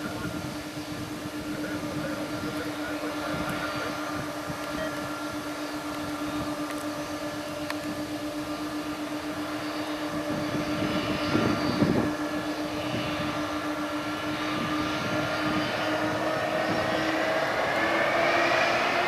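Airbus A330-200 jet engines whining steadily at low power, then rising in pitch and loudness over the last few seconds as they spool up to take-off thrust.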